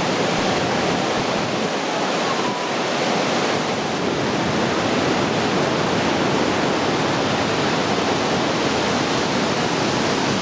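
Steady rush of a large waterfall heard close by: a dense, even noise of falling water with no breaks.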